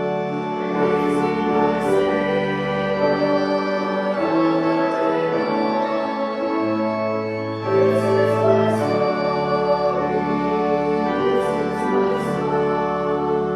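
Church organ playing sustained hymn chords while a congregation sings along.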